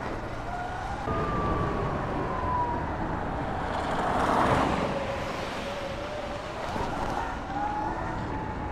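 Sur-Ron electric dirt bike's motor whining, its pitch sliding down and up with the throttle. A rushing noise swells about halfway through.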